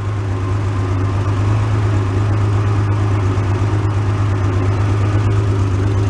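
Porsche 911 flat-six engine running steadily with an even low hum.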